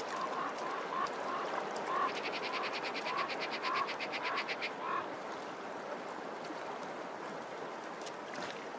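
Birds calling over the steady rush of shallow river water: a short call repeats about twice a second for the first five seconds, and a fast rattling chatter runs from about two seconds in to nearly five seconds and starts again near the end.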